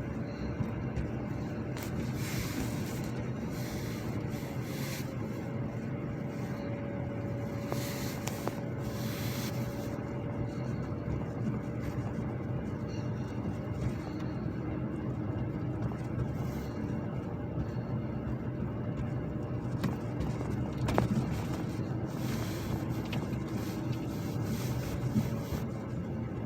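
Car driving on a snow-covered road: steady engine and tyre noise with a held hum that wavers slightly in pitch, and a few short hissing patches.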